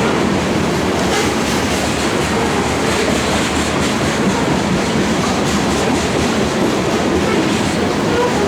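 Freight train cars of a grain train rolling past, a steady loud rolling noise with the wheels clicking over rail joints now and then.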